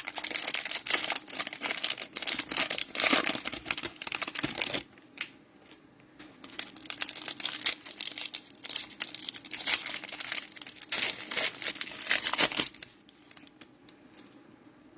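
Plastic wrapper of a cello pack of trading cards being torn open and crinkled in two bouts, the second ending about two seconds before the end, with quiet handling of cards in between and after.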